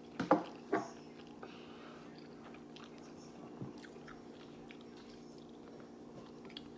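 A person biting and chewing food close to the microphone: a few loud bites in the first second, then quieter chewing.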